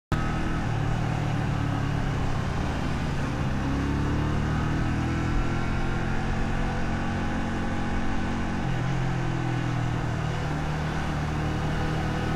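125 cc custom motorcycle engine running on the road at a fairly steady pace, its pitch drifting a little with small throttle changes, with road and wind noise underneath.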